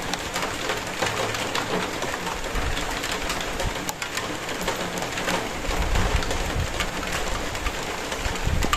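Rain falling: a steady hiss with many small, separate drop taps through it.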